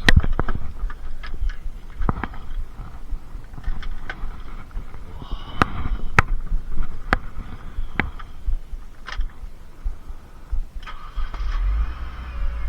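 Sharp knocks and clicks, then near the end the supercharged Mini Cooper S R52 engine is cranked and starts, settling into a low running rumble. This is a test start to see whether the cylinder 4 misfire has been cured.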